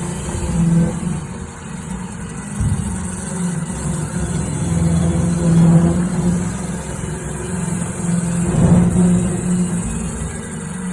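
Roomba robot vacuum running inside metal ductwork: a steady motor hum over rough scraping noise.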